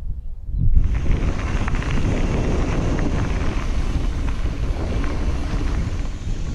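Wind buffeting the microphone with a steady rushing noise and small rattling clicks, as from riding a bicycle; it starts suddenly about a second in.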